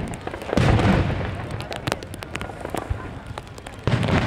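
Aerial fireworks bursting: a heavy boom about half a second in and another near the end, each rolling off, with sharp crackling pops scattered between.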